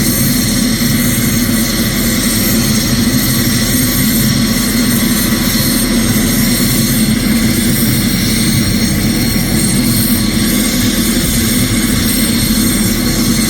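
A helicopter's GTD-350 gas-turbine engine running steadily: a constant high turbine whine over a heavy low drone, unchanging throughout.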